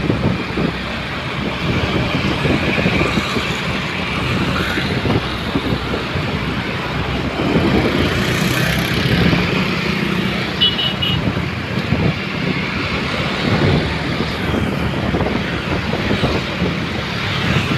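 Steady road traffic noise from trucks and other vehicles running along a busy road, with a short high beep about eleven seconds in.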